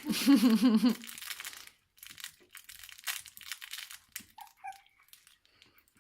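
A three-week-old kelpie puppy gives a loud wavering cry lasting about a second, then crinkly rustling from the puppies moving about, with a couple of faint short squeaks.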